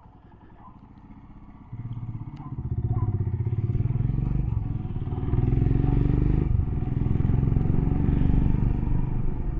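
Motorcycle engine pulling away: quiet at first, then the engine note jumps up just under two seconds in and builds to a steady, loud run under throttle, with a shift in the note about six and a half seconds in, like a gear change.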